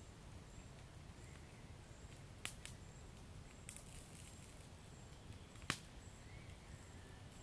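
Wood fire burning in a fireplace: a faint steady low rumble of flames with a few sharp crackles and pops, the two loudest about a third of the way in and about three-quarters of the way in.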